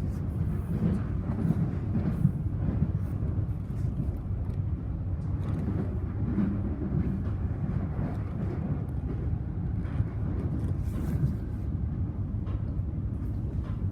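Inside a Siemens electric suburban train carriage running along the line: a steady low rumble of wheels on the rails, with faint scattered clicks and rattles.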